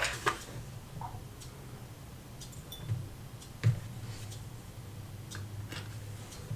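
Small sharp clicks and taps of metal watchmaker's tools handling tiny movement parts during reassembly of a watch movement, irregularly spaced, over a faint low steady hum.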